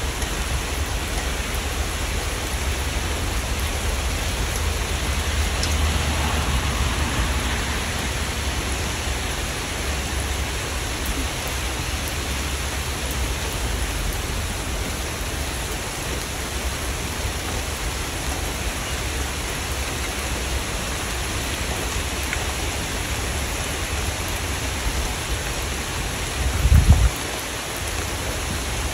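Steady rain falling, an even hiss with a low rumble underneath. A brief low thump near the end.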